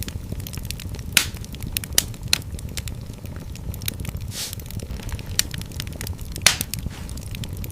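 Wood fire burning in a fireplace: a steady low rumble of flames under irregular crackling, with a few louder sharp pops and a brief hiss.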